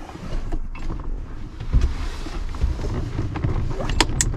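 Rubbing, knocking and handling noise from someone wrestling with a car's throttle pedal assembly under the dashboard, with two sharp clicks about four seconds in.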